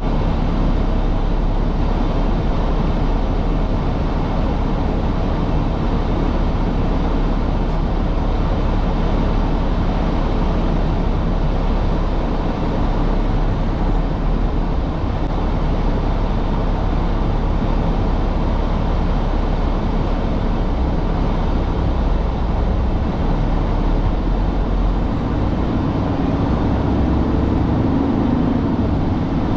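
Tractor-trailer truck on the road: steady engine hum mixed with tyre and road noise, the engine note shifting a little higher near the end.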